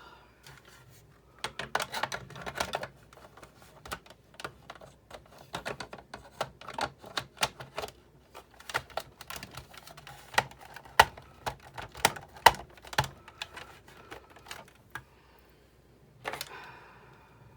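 Irregular clicking and knocking as parts of a Big Shot die-cutting machine are handled and fitted back together, with a short rustle near the end.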